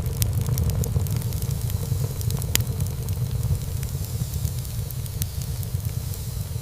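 Wood fire burning in a fireplace: a steady low rumble of flames with frequent small crackles and one louder pop about two and a half seconds in.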